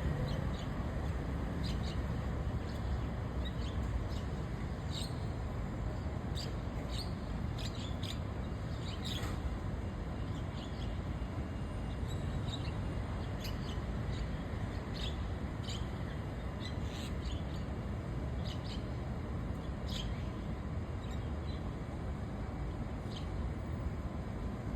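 White-cheeked starlings calling: short, scattered chirps, several close together, over a steady low rumble.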